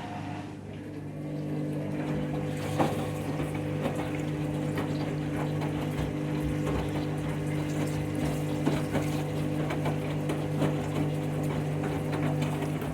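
Washing machine running: a steady mechanical hum with water rushing through it, and a few sharp knocks, the loudest about three seconds in.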